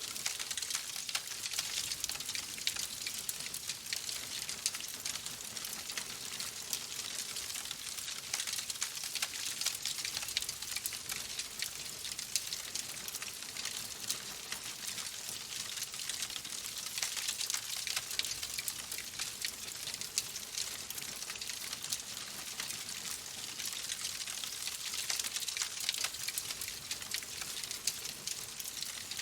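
Wood fire crackling in a fireplace: a steady hiss dense with small pops and snaps.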